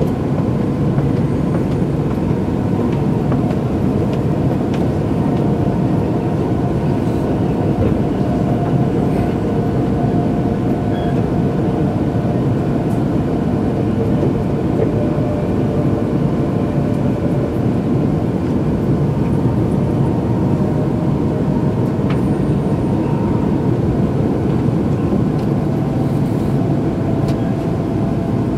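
Steady running noise of an E2-series Nagano Shinkansen train heard from inside the passenger cabin: wheels on rail and the car body rumbling at line speed, with a faint steady hum of tones over it.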